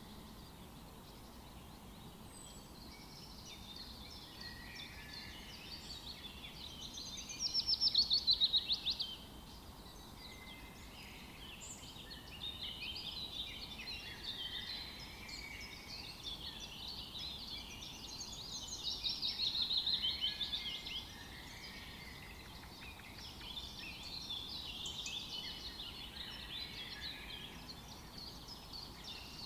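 Forest songbirds singing in a chorus over a faint background hiss. Two louder songs stand out, each a fast run of repeated notes falling in pitch and lasting a second or two, one about a third of the way in and one about two-thirds in.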